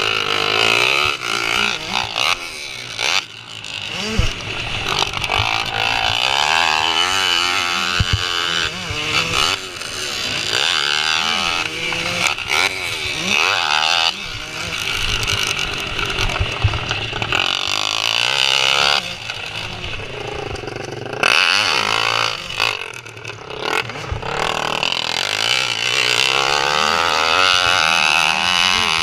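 Several motocross bikes racing, their engines revving up and down repeatedly as they accelerate, shift and pass by.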